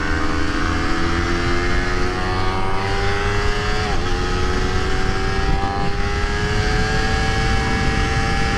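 Honda CBR250RR motorcycle engine under hard throttle at highway speed, its pitch climbing slowly as it pulls, with a brief dip about four seconds in and again at the end. Wind and road rumble run underneath.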